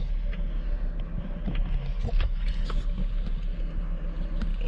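Volvo V70 2.4 non-turbo inline five-cylinder engine idling steadily, with a few light clicks. This engine has an intermittent cylinder 1 misfire that the misfire counter does not register at idle.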